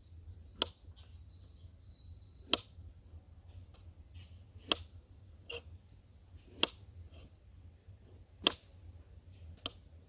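Six sharp knocks or snaps, about two seconds apart, with faint bird chirps in the background.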